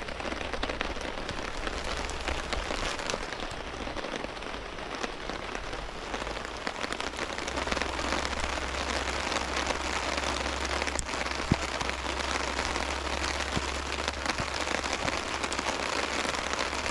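Heavy rain falling, a dense hiss of drops with the odd louder single drop, growing a little heavier about halfway through.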